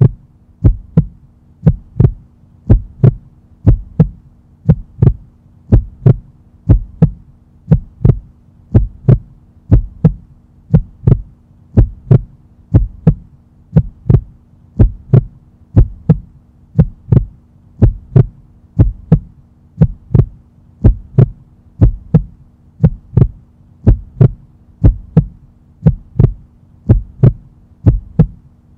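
A heartbeat-style pulse of evenly spaced thumps, about one a second, over a steady low hum. It is a timer track filling the rest break.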